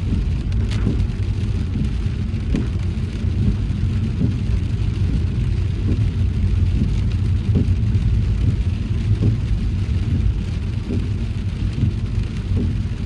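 Car driving in heavy rain: a steady low road and engine rumble under the hiss of rain on the car, with a soft knock repeating about every second and a half to two seconds.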